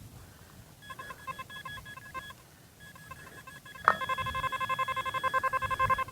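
Metal detector sounding its target tone over buried metal, here fragments of an old buckle: faint pulsing beeps at first, then after a click about four seconds in, loud rapid beeps, about ten a second.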